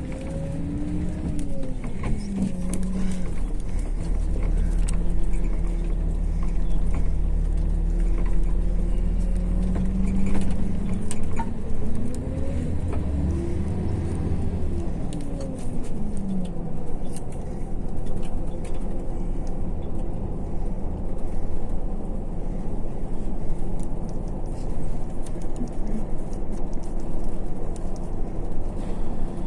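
MAZ-152 coach heard from inside the cabin, engine and drivetrain under way with a low rumble. A whine rises and falls twice in the first half, then it runs on steadily.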